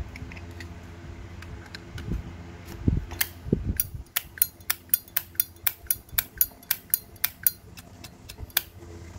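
Vintage Zippo lighter handled, with a few soft clicks and thumps, then its hinged metal lid flicked open and snapped shut over and over: a quick, even run of sharp metallic clicks, about three to four a second, stopping near the end.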